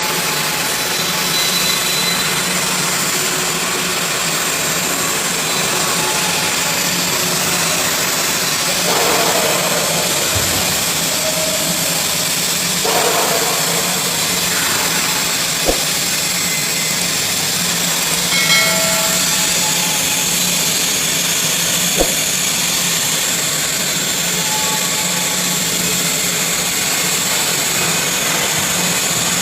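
TIG welding arc running, a steady hiss with an even buzz under it, and two short sharp ticks part way through.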